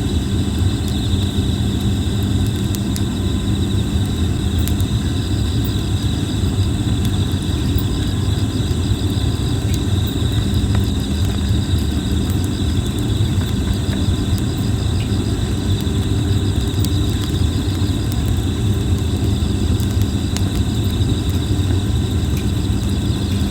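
Campfire of plum wood crackling, with sharp scattered pops over a steady low rumble. Insects chirp steadily in the background.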